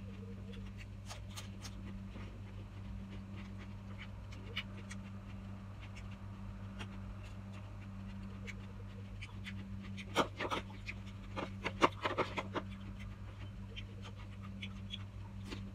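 Close-up eating sounds: chewing and crunching a raw cucumber slice topped with egg, with small clicks and scrapes of a metal spoon against plastic bowls. A cluster of louder crunching clicks comes about ten to twelve seconds in, over a steady low hum.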